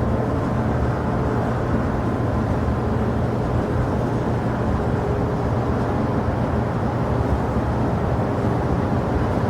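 Steady low rumble of jet aircraft engines at an airport, holding level without rising or falling.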